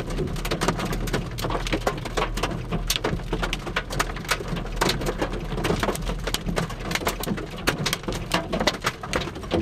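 Raindrops striking a vehicle's glass and body, heard from inside as dense, irregular sharp taps several times a second over a steady low rumble.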